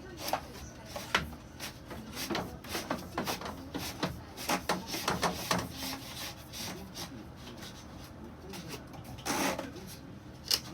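Irregular clicks, taps and scraping of hard parts being handled and rubbed together, busiest in the first half, with a short hiss about nine seconds in and a sharp click near the end.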